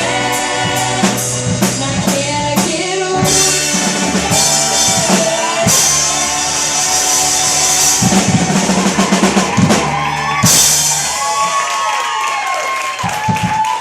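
Live blues-rock band playing out the end of a song: drum kit with cymbal crashes, bass and electric guitar. The bass and drums stop about eleven seconds in while the guitar rings on with bent notes.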